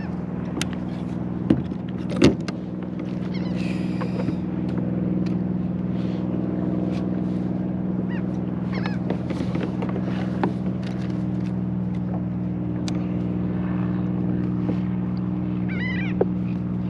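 Steady hum of a motorboat engine running, with a few sharp knocks about a second and a half and two seconds in, and a bird calling near the end.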